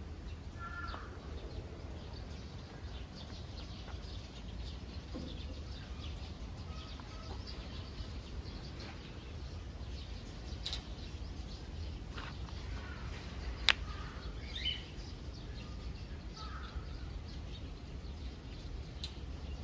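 Scattered short bird chirps over a steady low rumble, with a single sharp click about fourteen seconds in.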